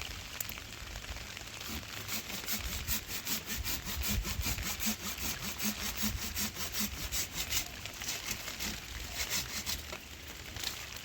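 A fast run of rhythmic rasping strokes, about six a second, of something being scraped or rubbed back and forth; it thins out a few seconds before the end.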